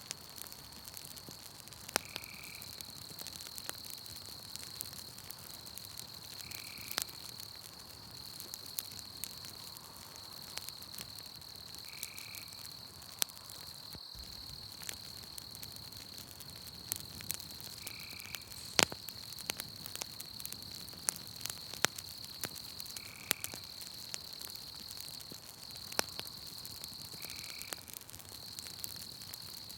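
Campfire crackling, with sharp pops scattered irregularly. Behind it runs a steady high insect trill from a night-forest chorus, and a short call repeats about every five seconds.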